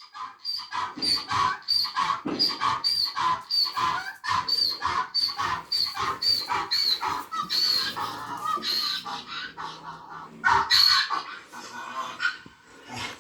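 Donkey braying: a long run of rhythmic calls, about two a second, with a louder call near the end.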